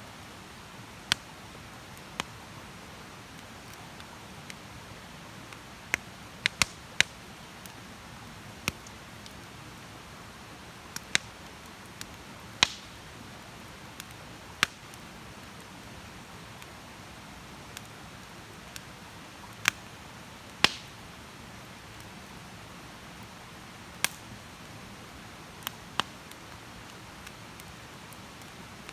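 Wood campfire crackling: sharp pops at irregular intervals, some close together in pairs or threes, over a soft steady hiss.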